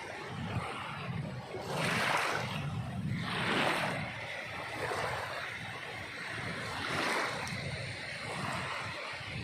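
Sea waves breaking and washing on a shore, rising and falling in rushing surges, the strongest about two and three and a half seconds in and again near seven seconds.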